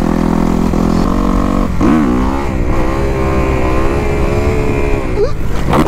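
2021 Kawasaki KX250's four-stroke single-cylinder engine revving hard under acceleration. Its pitch dips about two seconds in, climbs and holds, then shoots sharply upward near the end as the wheelie loops out.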